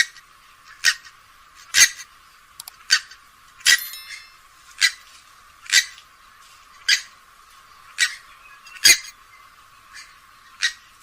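Grey-headed swamphen giving a run of short, sharp call notes, about one a second.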